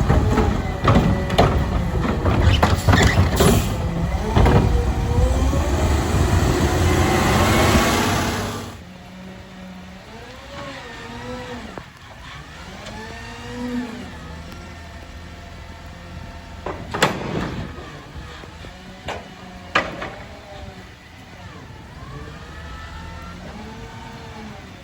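Autocar ACX garbage truck with a McNeilus Meridian front-loader body and Curotto Can arm working. For the first nine seconds it is loud, with the engine revving up and clanking and banging, then this cuts off suddenly. Afterwards it runs quieter, with repeated rising-and-falling whines and two sharp bangs about two-thirds of the way through.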